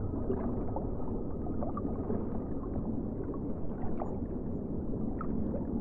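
Muffled underwater water noise, a steady low rushing with a few faint small clicks.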